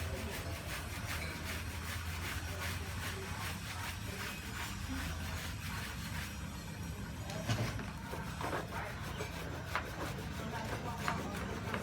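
Repeated rubbing and scrubbing strokes on a motorcycle as it is washed with soap, over a steady low hum.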